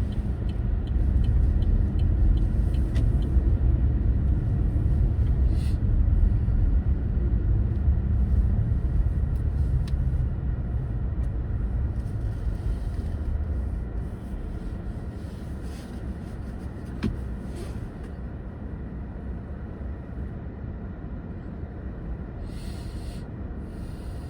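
Car driving with a steady low rumble of road and engine noise, which drops noticeably about halfway through as the car slows.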